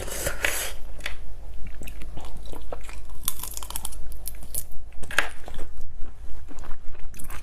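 Close-up chewing of raw shrimp: wet mouth sounds and irregular small crunchy clicks as the shrimp is bitten and chewed.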